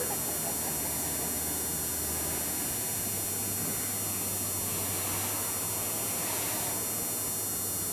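Steady engine and road noise heard from inside a moving car, with a low engine drone that rises slightly in pitch about three seconds in.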